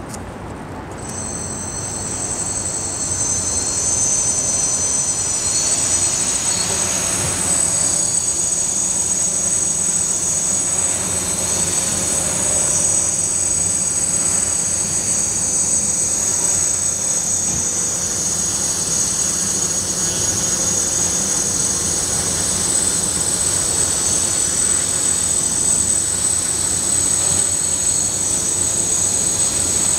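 Radio-controlled hexacopter's motors and propellers spinning up about a second in and then running steadily, with several high, steady whine tones over the rushing of the propellers.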